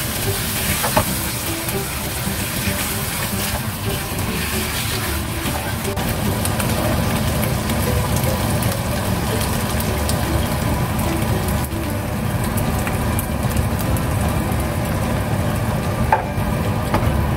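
Beef chunks frying in rendang spice paste in a nonstick wok, sizzling steadily while a spatula stirs them, with a few knocks of the spatula against the pan about a second in and near the end.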